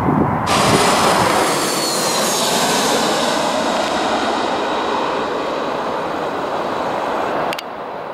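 Jet airliner passing close by: a loud rush of jet engine noise with whining tones that slowly fall in pitch. It starts suddenly about half a second in and cuts off abruptly near the end.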